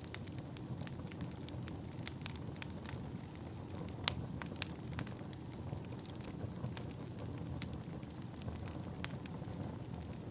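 Wood burning in a fireplace: a steady low rush of flame under frequent sharp crackles and pops, the loudest pop about four seconds in.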